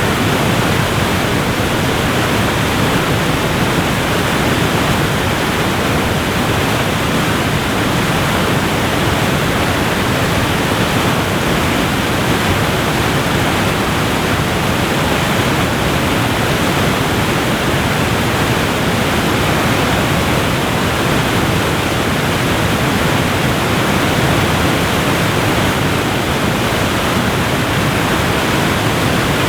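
Waterfall: a steady, dense rush of falling water with no breaks or changes.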